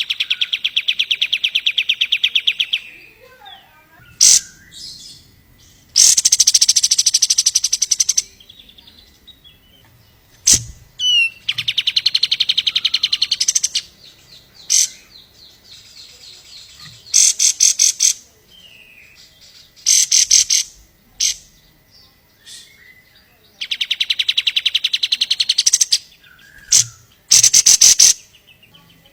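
Kapas tembak songbird singing: about seven loud phrases of very fast, rapidly repeated trilled notes, each lasting one to three seconds, separated by short pauses with softer chirps.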